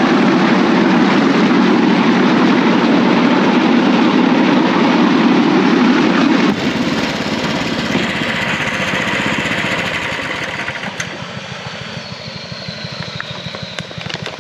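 Bamboo train (norry) running along the rails on its small motor: a loud, steady engine note with the clatter of the platform and wheels. About six and a half seconds in the low engine note drops away, and the sound grows gradually quieter over the last few seconds.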